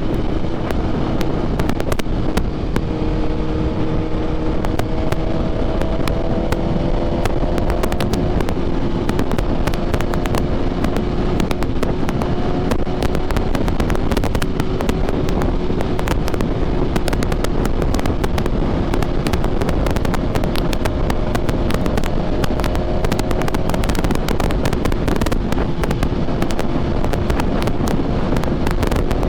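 Sport motorcycle's engine, the rider's BMW S1000RR with an aftermarket SC Projects exhaust, running at fairly steady revs while riding, the pitch rising a little a few times. Heavy crackling wind noise on the helmet-mounted microphone covers it.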